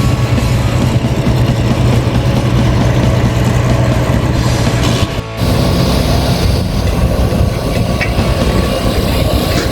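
Diesel truck engine running steadily, with a brief break about five seconds in.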